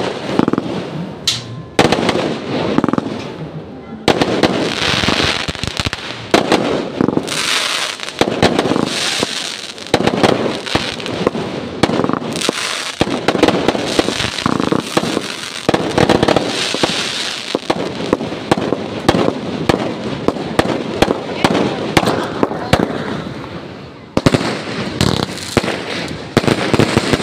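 Fireworks display: a rapid, continuous barrage of bangs and crackling bursts.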